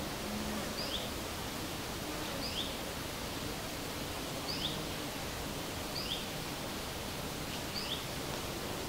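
Steady outdoor rustling, like wind in leaves, with a small bird repeating a short, high two-note call five times, about every second and a half.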